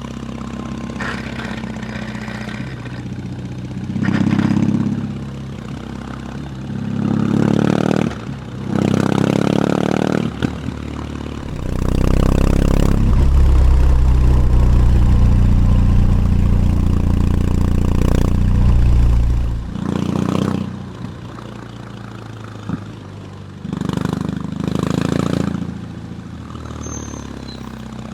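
BMW R18's big 1.8-litre boxer twin running at low revs between several short bursts of throttle. It makes one long, loud pull of about eight seconds in the middle, then drops back to a low, uneven beat.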